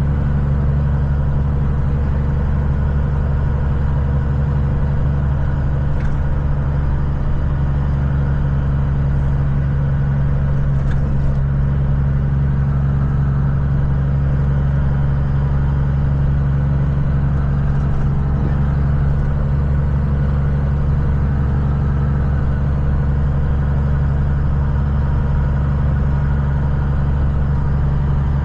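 Steady low drone of a vehicle's engine and road noise heard from inside the cab while driving at an even speed.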